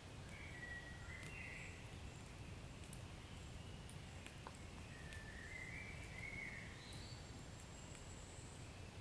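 Wood fire burning softly in a fireplace: sparse, faint crackles and pops over a low steady rumble, with a few faint wavering whistle-like tones.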